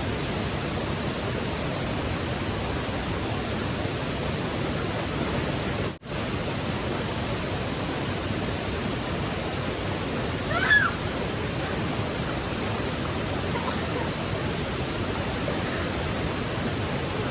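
Steady rushing of stream water, with a momentary break about six seconds in. About ten and a half seconds in, a single short high-pitched call rises briefly above the water.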